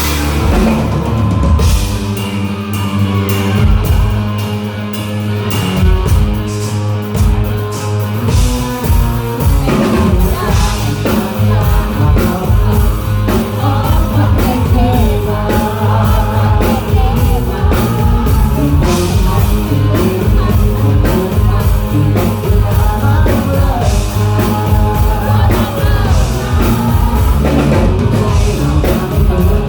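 Live rock band playing loudly through a PA, with drum kit, bass and guitars and a singing voice; the drumming gets busier about ten seconds in.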